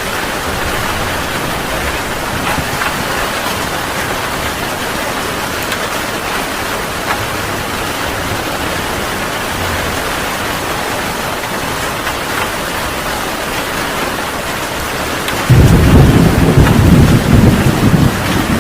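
Heavy rain falling steadily in a thunderstorm. Near the end a loud low thunder rumble breaks in suddenly over the rain.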